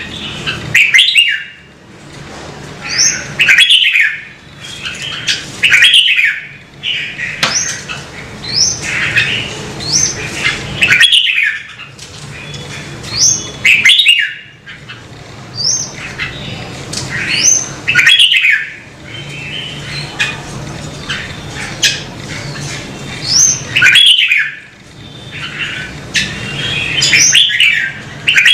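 Red-whiskered bulbul singing loud, repeated short whistled phrases about every two seconds, each ending in a quick rising note.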